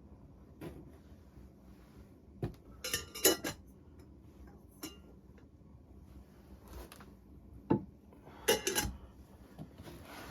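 Metal cookware and utensils being handled: sharp clinks and clanks with a brief metallic ring, in two clusters, about three seconds in and again near eight seconds.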